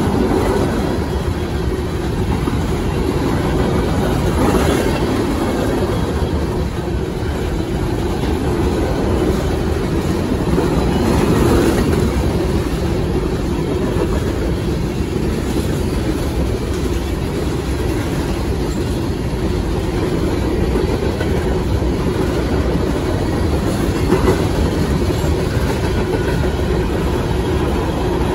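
Freight train of covered hopper cars rolling past close by at speed: a steady rumble of steel wheels on rail, with a few faint clacks.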